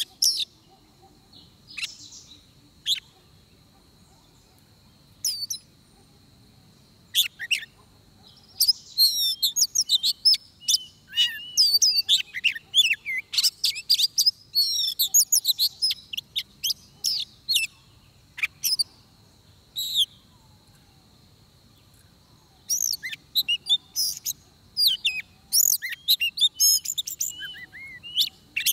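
Oriental magpie-robin singing: bursts of rapid, varied whistles and chirps broken by pauses, busiest in the middle and near the end.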